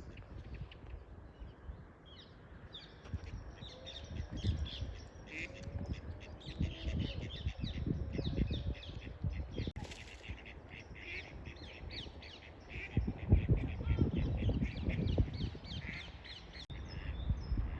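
A flock of birds chirping and calling in a dense, continuous chatter of short notes. Low thumps and rumbling come and go underneath, loudest a little past the middle.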